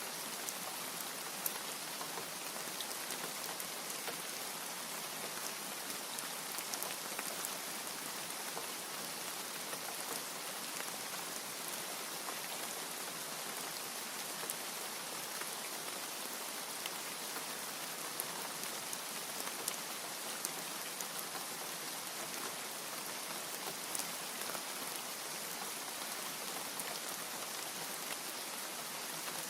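Steady rain: a dense, even hiss of falling drops, with scattered sharp ticks of single drops striking.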